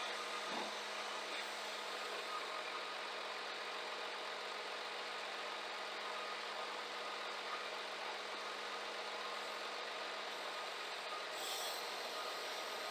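Scania G410 truck running steadily, with a brief high hiss near the end.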